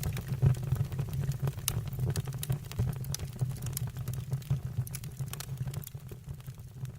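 Wood fire burning in a fireplace: a steady low rumble of flames with many sharp, irregular crackles and pops, growing fainter over the last couple of seconds.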